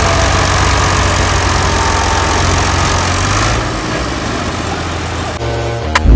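Tractor engine running loudly under strain, with a heavy hiss of noise over a low hum. The sound changes abruptly about five seconds in, and a sharp knock and a heavy thud come at the very end.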